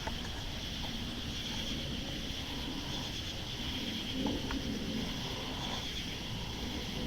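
Steady outdoor night ambience: a constant high-pitched insect drone over a low, even rumble, with a couple of faint ticks.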